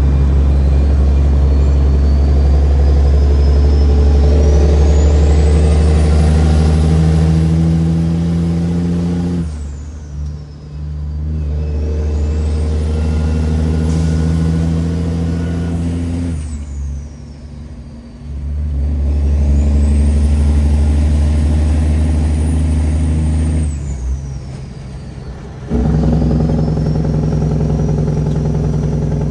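Heavy truck's Cat 6NZ diesel engine pulling hard under a heavy load, with a rising turbo whistle during each pull. The engine drops off and picks up again three times, about ten, seventeen and twenty-four seconds in, as the driver shifts up through the gears.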